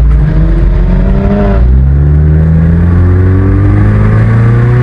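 Sports car engine and exhaust accelerating hard, loud, the pitch climbing, dropping briefly with an upshift about a second and a half in, then climbing again through the next gear.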